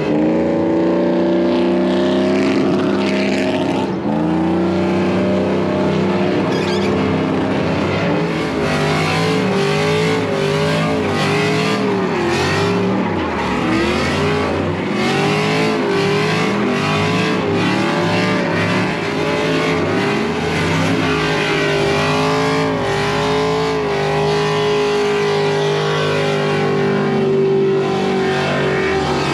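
Truck engine revving hard at high rpm, its pitch wavering up and down over and over, then holding steadier near the end.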